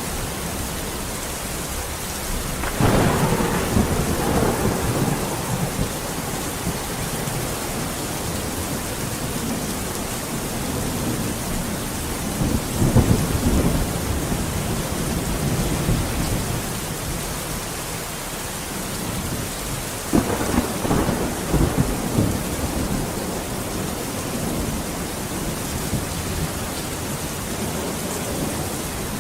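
Steady rain falling, with rolls of thunder rumbling through it three times: about three seconds in, around the middle, and again about two-thirds of the way through.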